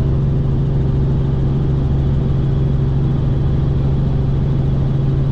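Helicopter in flight: a steady, loud engine-and-rotor drone with a strong low hum that does not change.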